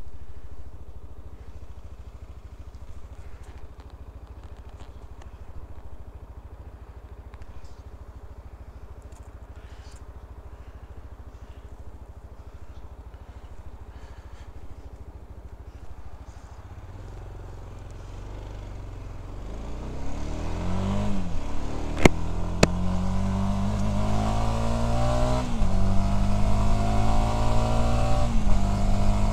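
Voge 300DS motorcycle's single-cylinder engine idling steadily, then pulling away and accelerating through the gears. Its note climbs and drops back at three upshifts. Two sharp clicks come close together midway through the acceleration.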